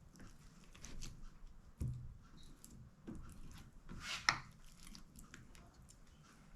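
Cooked hamburger patties being handled and pressed into glass canning jars: soft squishy thumps with scattered light clicks, the sharpest click about four seconds in.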